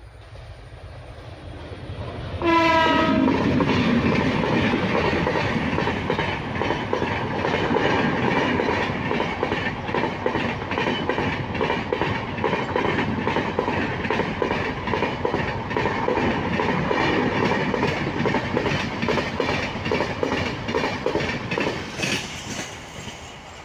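Gandhidham–Tirunelveli Humsafar Express passenger train passing at speed: a rising approach, a short horn blast about two and a half seconds in that drops in pitch as the locomotive goes by, then a long run of rapid wheel clatter over the rail joints as the coaches pass. The clatter fades near the end as the last coach clears the crossing.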